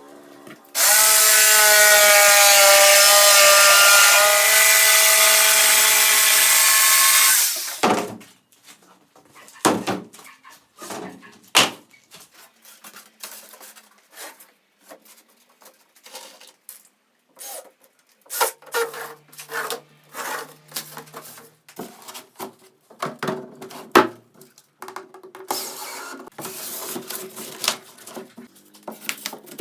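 A power tool working wood runs loudly and steadily for about seven seconds with a high motor whine, then stops. It is followed by scattered knocks and clicks of wood and tools being handled.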